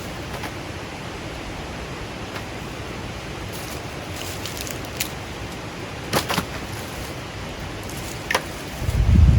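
Steady rushing outdoor noise with a few sharp clicks or crackles in the middle, then a low gust of wind buffeting the microphone near the end.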